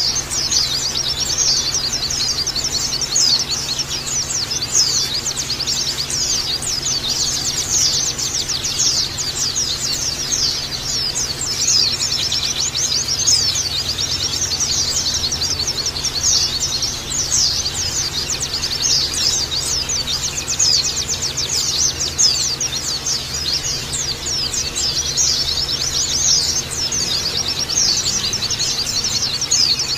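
A flock of white-eyes (pleci) calling together: a dense, unbroken chorus of high, rapid chirps and chattering trills from many birds at once.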